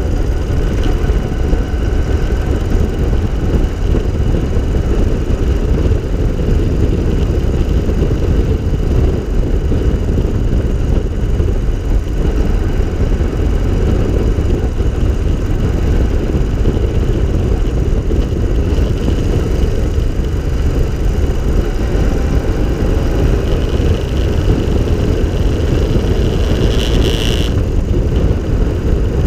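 Open three-wheeler's air-cooled flat-twin engine running at a steady cruise, mixed with heavy wind rush on the microphone. A brief high-pitched note sounds near the end.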